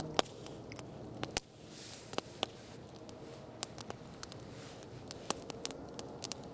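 Wood campfire crackling: irregular sharp pops and snaps over a low steady hiss.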